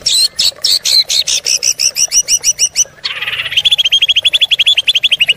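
Songbird song: a fast series of sharp repeated chirps, about seven a second. About three seconds in, a quicker trill of notes begins and slides gradually lower in pitch.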